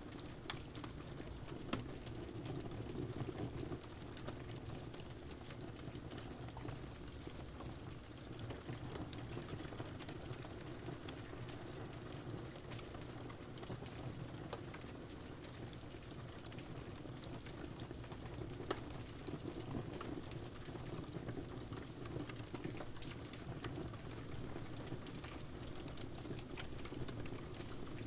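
Wood fire crackling, with sharp pops here and there, over a steady wash of rain.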